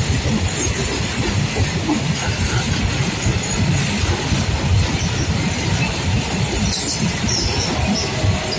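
Freight train hauled by a WDG-4G diesel locomotive rolling past: a steady, continuous rumble of wheels with rapid clattering over the rails.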